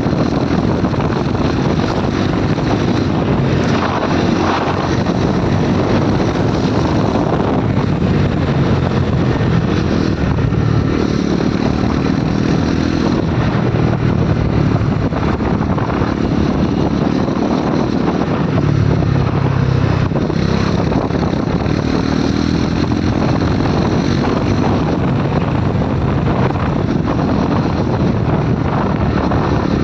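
KTM RC 390's single-cylinder engine running while the motorcycle is ridden, with faint rises and falls in engine pitch and wind rushing over the microphone.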